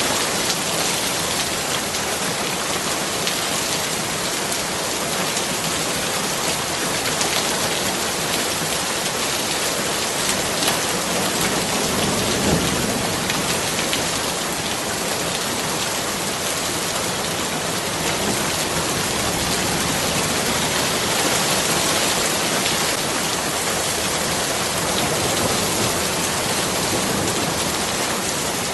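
Steady rain falling, a dense, even hiss of many drops on surfaces.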